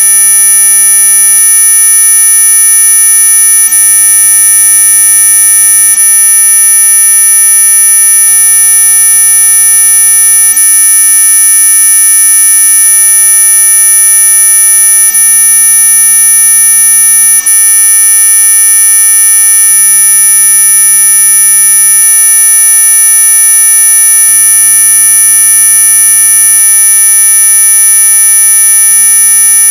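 Synthetic electronic tone sold as a mosquito repellent: a loud, continuous, unchanging high-pitched buzz made of several steady tones, strongest at the very top of the hearing range.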